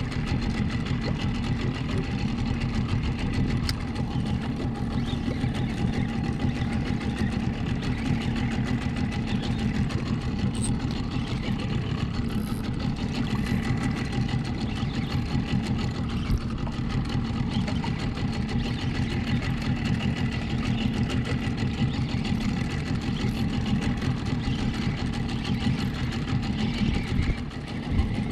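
Small outboard motor running steadily at low speed.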